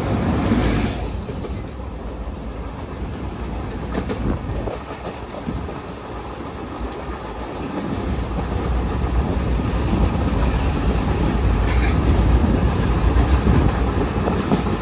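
Passenger train of ICF coaches running at speed, heard from an open coach door: a steady rumble of wheels on the rails with occasional clickety-clack over the rail joints, getting louder in the second half.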